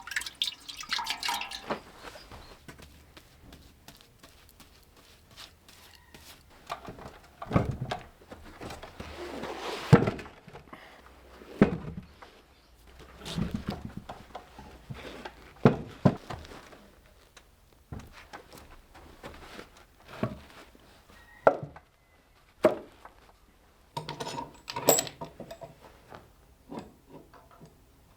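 PVA glue being brushed and spread on oak boards, with irregular wooden knocks and thunks as the boards are handled and stacked for the glue-up.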